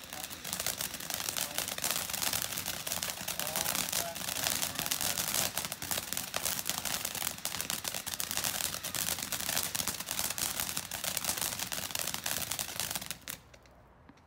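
Fireworks going off in a dense, rapid string of cracks and pops, stopping abruptly near the end.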